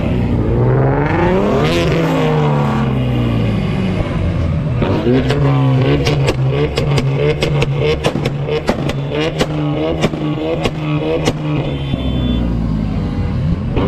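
A high-performance car engine being revved hard, its pitch rising and falling. Then, from about five seconds in until near the end, a rapid run of sharp exhaust pops and crackles plays over the running engine.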